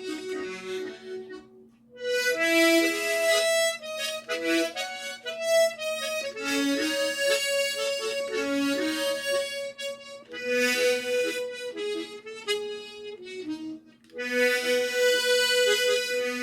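Harmonica playing a slow song melody, broken up with evenly repeated chord notes in a slow go-go rhythm, with short pauses about two seconds in and again about fourteen seconds in.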